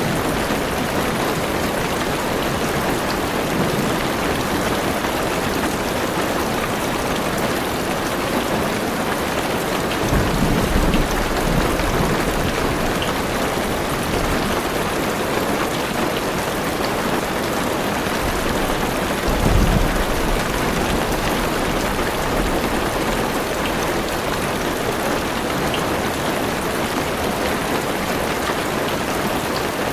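Heavy rain falling steadily on a car's roof and windows, heard from inside the car. Two brief low rumbles of thunder come through, about ten seconds in and again about twenty seconds in.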